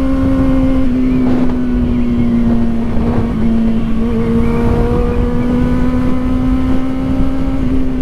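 Kawasaki Ninja ZX-4RR's inline-four engine running at high, fairly steady revs under way, its pitch sagging a little and then holding, over a constant rushing noise.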